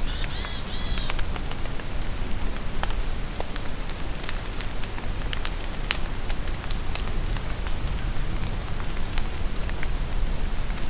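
Steady rain falling in a forest, with many sharp drips and splats of drops on leaves. A bird sings a quick, high run of repeated notes in the first second, and a few faint high chirps follow now and then.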